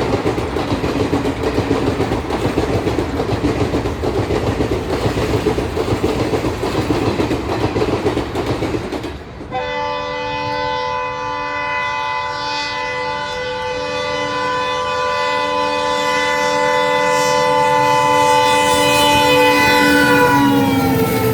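An ALCO WDM3D diesel-hauled train passing at speed, with dense rumble and wheel-on-rail noise. About nine seconds in it cuts to an approaching ALCO WDM3A diesel locomotive sounding one long multi-tone horn blast that grows louder, its pitch dropping near the end as the locomotive passes.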